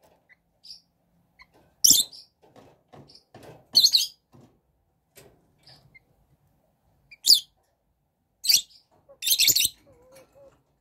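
Young chickens chirping in short high calls, about five times, the last one a little longer.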